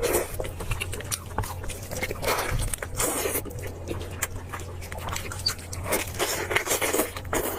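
Close-miked chewing and biting of meat: irregular wet mouth clicks and smacks.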